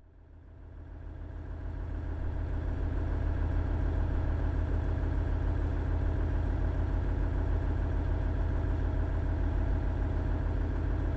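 The Cummins DMF14HZA diesel engine of a KiHa 110 series 200-number railcar idling with a deep, steady hum, fading in over the first two seconds.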